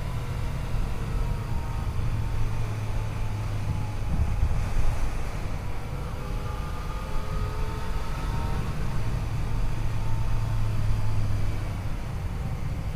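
Yamaha FJ-09's 847 cc three-cylinder engine running under way at a fairly steady pitch, with wind noise rushing over the microphone and a brief louder gust about four to five seconds in.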